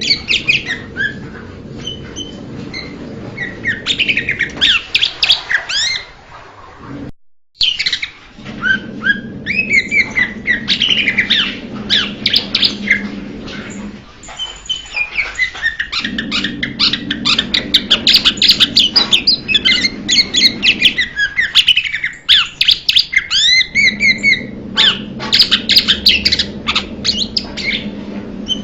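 Blue-winged leafbird song: a rapid, varied run of chirps, whistles and sweeping notes in several long bursts, with a brief gap about seven seconds in. A low steady hum sounds under some of the stretches.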